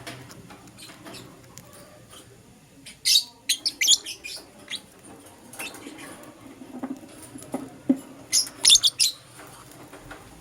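Lovebirds chirping: short, sharp, high calls in two quick bursts, one about three seconds in and a louder one near the end.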